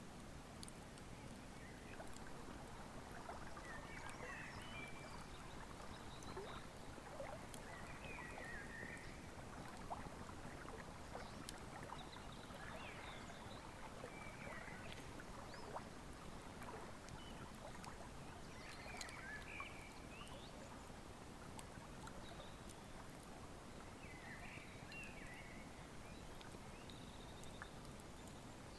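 Wood fire crackling with scattered sharp pops over a river flowing steadily. Short high chirps every few seconds, from a bird in the spring forest.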